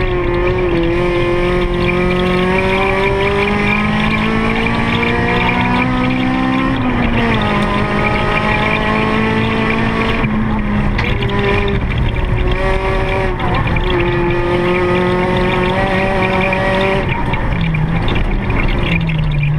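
Car engine pulling hard, its pitch climbing slowly, then dropping sharply at a gear change about seven seconds in, followed by steadier running with several smaller rises and falls in pitch.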